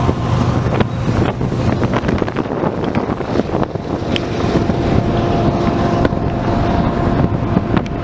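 Strong wind buffeting the microphone over the steady rumble of a passing diesel-hauled freight train.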